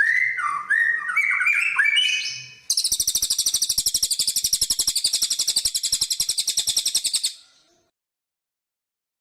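Songbird singing: varied whistled phrases gliding up and down, then, about three seconds in, a long, very fast, high rattling trill lasting some four seconds that stops abruptly.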